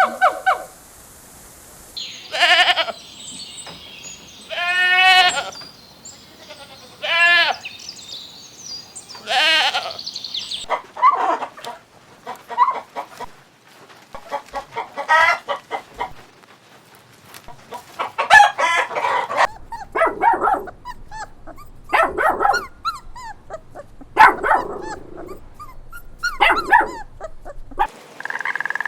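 Goats bleating over and over, each bleat a wavering, quavering call, roughly every couple of seconds.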